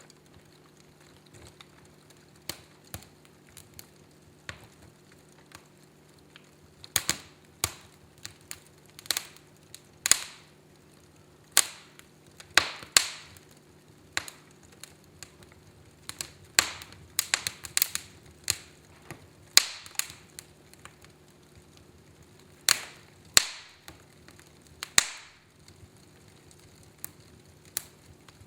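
A fire in a fireplace crackling, with irregular sharp pops. The pops are sparse at first, come thicker and louder through the middle, then thin out again near the end.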